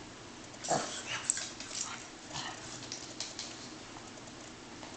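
A pug puppy gives one short cry that drops sharply in pitch, about a second in, followed by a few short scuffling, snuffling noises. The puppy is upset by a chirping smoke detector.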